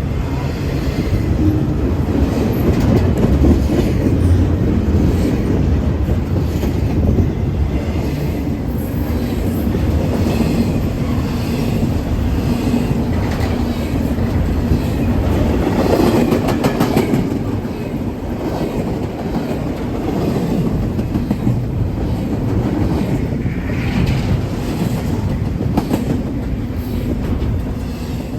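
A train passing at track level, its rolling rumble steady, with wheels clicking over rail joints.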